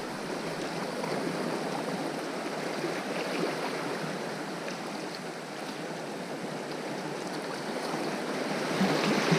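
Sea water washing and lapping against shore rocks, a steady rushing that swells a little near the end.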